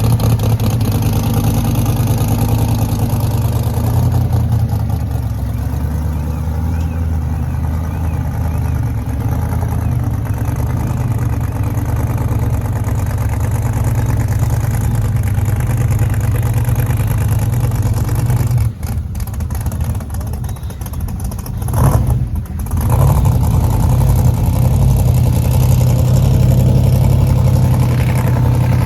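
A car engine running steadily, a loud low rumble that dips briefly about two-thirds of the way through.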